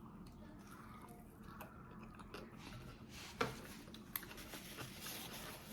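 A person chewing a mouthful of taco close to the microphone, faint and wet, with a sharp crunch about three and a half seconds in and a smaller click just under a second later.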